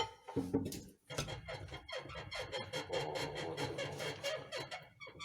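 Rear leaf springs of a Mercedes-Benz Sprinter W906 squeaking in a dense run of short creaks from about a second in. The mechanic puts the squeak down to the leaf springs' silent-block bushings, or to the rubber pads the spring drops onto.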